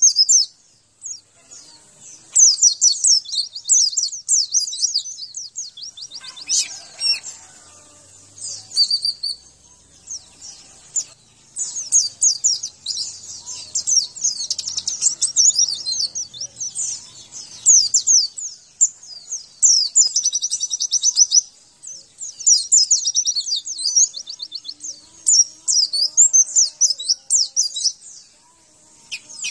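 White-eye (pleci) singing: long runs of rapid, high-pitched twittering notes, broken by short pauses every few seconds.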